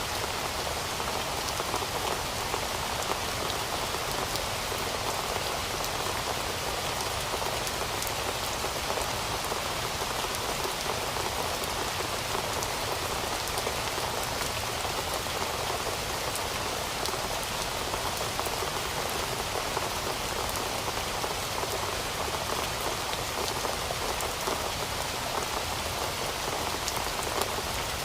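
Steady rain falling on a surface: an even hiss dotted with many small drop ticks, unchanging throughout.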